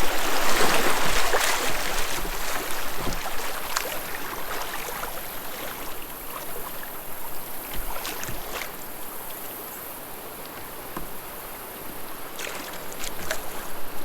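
Creek water running and splashing around a kayak, with scattered short splashes and knocks. The water is loudest at first, dies down to its quietest about ten seconds in, then builds again near the end.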